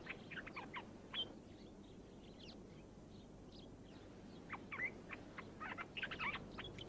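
A songbird singing a run of quick, short notes, one spell in the opening second and another starting about four and a half seconds in.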